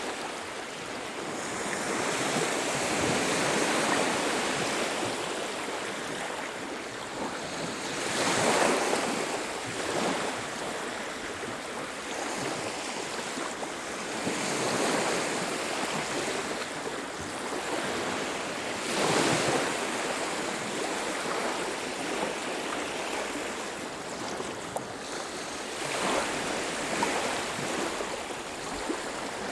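Surf on a beach: about five waves break and wash in, each swelling and fading over a few seconds, over a steady hiss of water.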